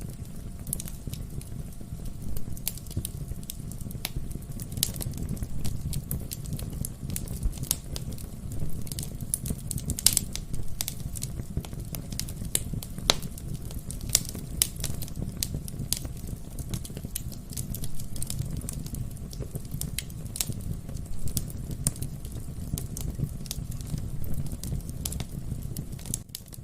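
Wood fire burning in a fireplace: a steady low rumble of the flames with irregular sharp crackles and pops from the burning logs, one louder pop about ten seconds in.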